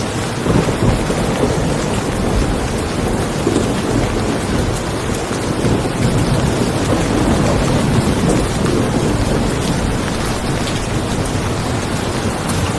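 Steady rain falling on a car, with a long low roll of thunder that swells about half a second in and eases off after about nine seconds.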